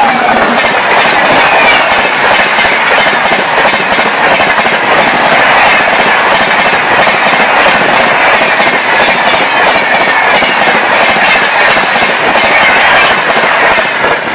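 Indian Railways express train rushing past at speed, its coaches making a continuous loud rush with wheels clattering over the rail joints.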